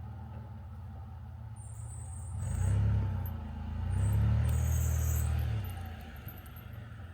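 Vehicle engine running, then revving up in two surges as it drives through deep snow, with a hiss over the top during the revs, before settling back to a steady drone.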